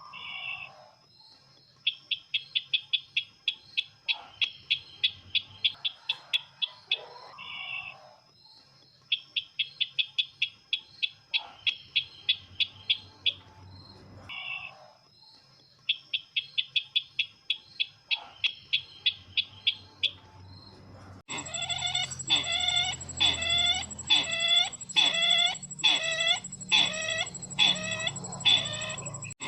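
Bird lure call of the sisintar ladang, played as a recording: bursts of rapid high chirping notes, each burst about two seconds long, repeated every few seconds. About two-thirds of the way through it cuts abruptly to a louder run of lower calls, about two a second.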